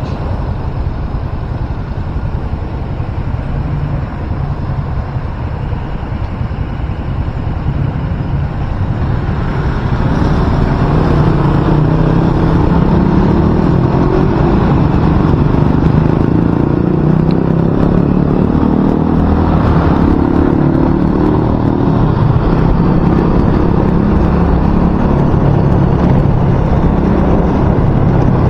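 Loud wind noise buffeting a microphone wrapped in electrical tape, with a moving vehicle running underneath; the tape has not stopped the wind noise. It grows louder about ten seconds in and stays loud.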